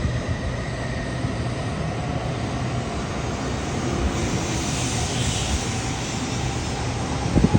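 N700S Shinkansen train pulling out, a steady rushing whir of its wheels and motors with a hiss that swells about four to six seconds in. A few low thumps near the end.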